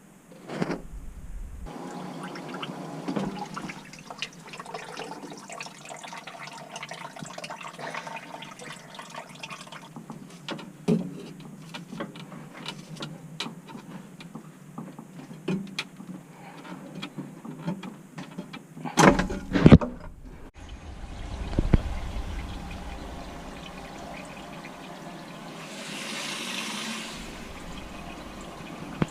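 Water running and rushing through plumbing fixtures, broken by clicks and knocks of hand-tool work, over several short edited clips. The loudest knocks come in a cluster a little past two-thirds of the way in.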